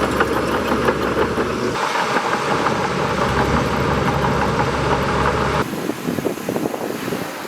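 Bulldozer's diesel engine running with a steady clatter. The sound changes abruptly twice, about two seconds in and again near the end.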